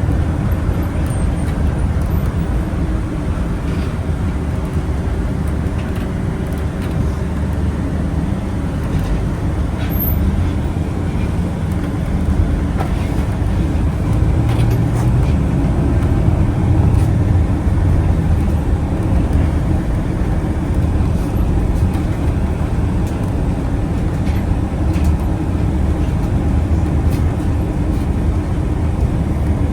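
Steady rumble of a public-transport vehicle on the move, heard from inside as a passenger, with the engine and road noise swelling slightly now and then.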